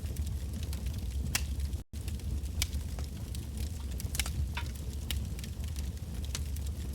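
Firewood burning in a bonfire, crackling and popping at irregular times over a steady low rumble, with a momentary dropout about two seconds in.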